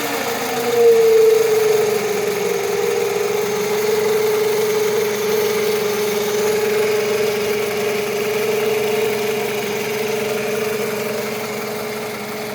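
2005 Scion tC's 2.4-litre four-cylinder engine idling with a steady whine, from a failing alternator. The whine's pitch eases slightly as the revs settle in the first second or so, then holds steady.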